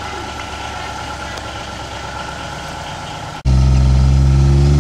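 A vehicle engine running with a steady hum, then an abrupt cut about three and a half seconds in to a much louder, steady, low idle of a utility vehicle's engine close by.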